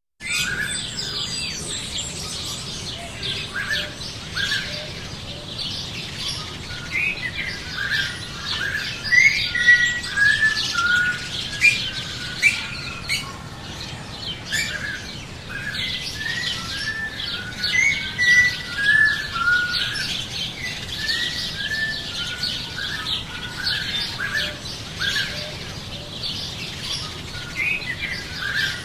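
Songbirds singing: a dense chorus of many short chirps and trills at varied pitches, overlapping without pause.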